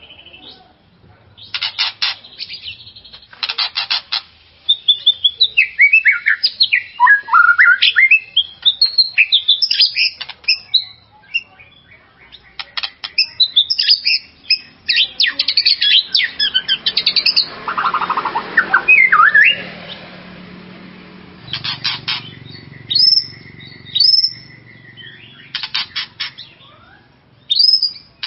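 White-rumped shama (murai batu) singing: loud, varied whistled phrases that sweep up and down, broken by bursts of fast, repeated chattering notes.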